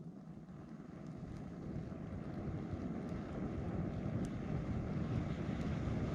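One long breath blown through a telescoping fire-blower tube onto campfire embers to fan the fire: a steady rushing that grows louder.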